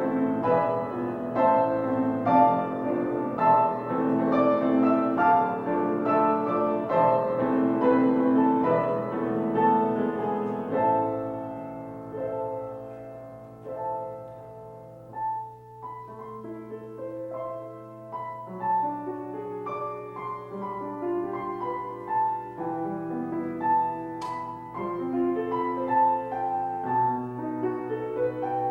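Solo piano playing a slow, gentle piece of chords and melody, growing softer and sparser about halfway through before picking up again.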